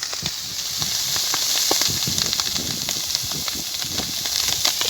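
Bonfire burning: a steady hiss with many sharp crackles and pops.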